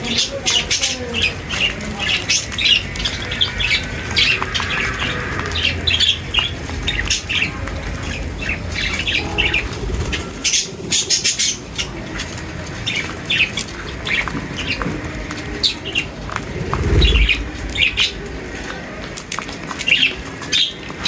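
A flock of birds chirping and squawking in many quick, short, high calls that overlap throughout. A brief low rumble comes about seventeen seconds in.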